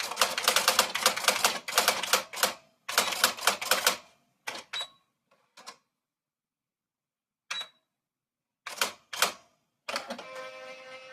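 Typewriter being typed on: fast runs of key strikes at first, then scattered single strokes with a pause of about two seconds. Near the end comes a short pitched whir of about a second.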